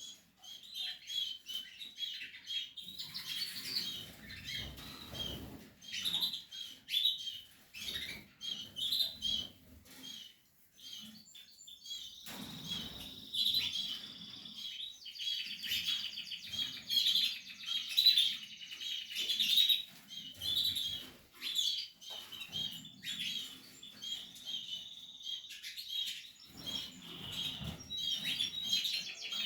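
Portuguese harlequin canary nestlings cheeping in rapid, high-pitched runs of short calls, the begging chorus of chicks in the nest, thickening into a dense chorus a few times.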